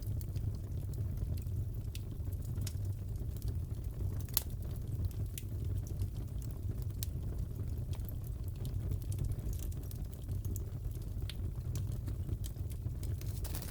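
Crackling fireplace: a steady low fire noise with scattered sharp pops and snaps of burning wood.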